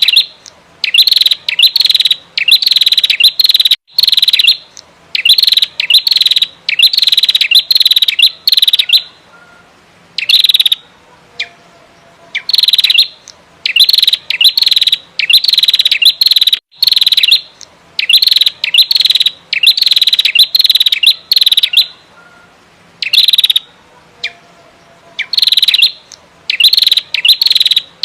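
Female prenjak merah calling in loud, quick bursts of rapid chattering notes, each burst under a second long. The bursts come in runs, broken by pauses of a second or two.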